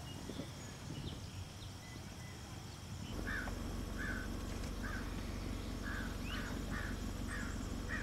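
Faint bird chirps, then from about three seconds in a bird giving a short harsh call over and over, about twice a second, over steady outdoor background noise.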